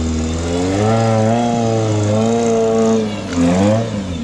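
An off-road rock crawler's engine revving, its pitch rising and falling several times as the throttle is worked.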